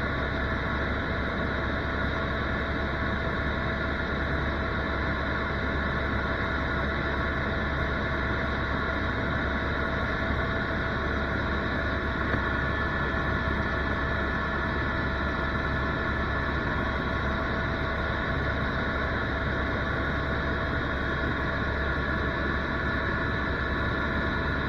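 Tour helicopter in flight: steady engine and rotor noise, heard from inside the cabin, with a constant turbine whine over a dense rumble.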